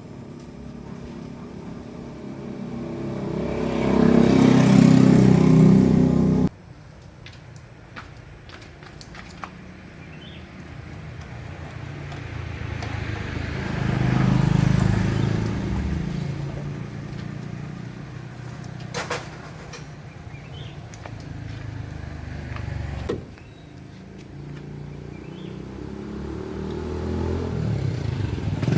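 A motor vehicle engine swelling louder and fading away several times, broken off abruptly twice, with a sharp click in the middle.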